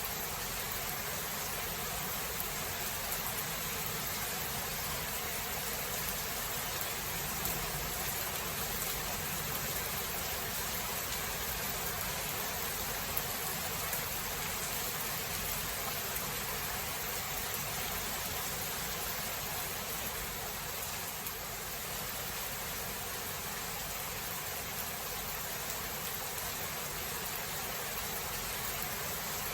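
Steady rainfall of a thunderstorm, an even hiss with no distinct thunderclap.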